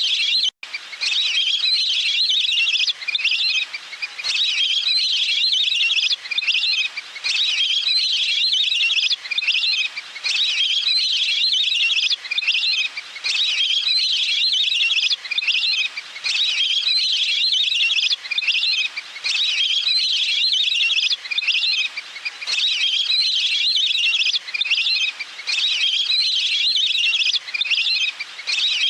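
Recorded calls of a waterfowl ('nok pet nam') used as a lure: high chirping calls, repeated in quick bouts of about a second with short gaps between them. The sound drops out briefly near the start.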